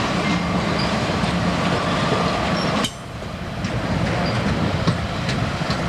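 A train running past on the rails: a steady rumble with faint wheel clicks. About three seconds in the sound drops off suddenly, then builds back up.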